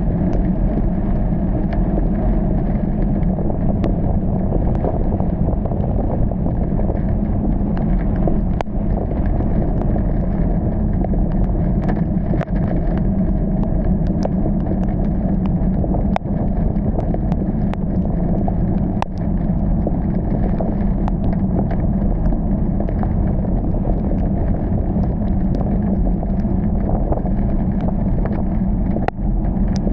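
Steady car engine and tyre noise while driving through heavy rain, with a few isolated sharp ticks.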